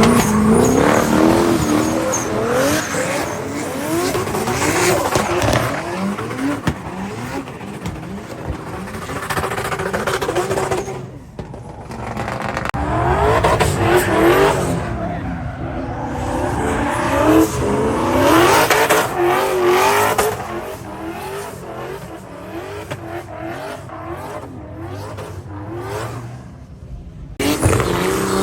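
Drift cars' engines revving hard, the pitch rising and falling again and again as they slide, with tyres squealing. The sound drops away briefly about eleven seconds in and changes abruptly near the end.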